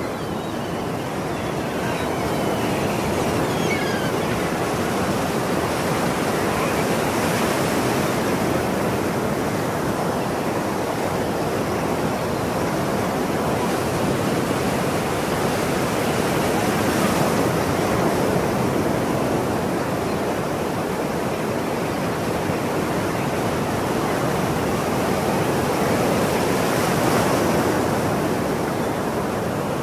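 Ocean surf: a steady wash of waves breaking on the shore, swelling louder about every ten seconds as a wave comes in.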